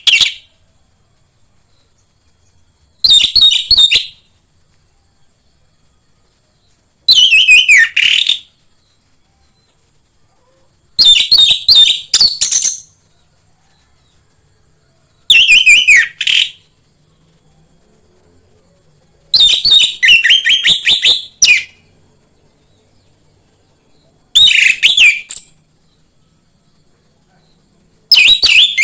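Orange-headed thrush singing short, varied warbled phrases of about a second each, repeated about every four seconds, seven times, with a steady faint high hiss behind.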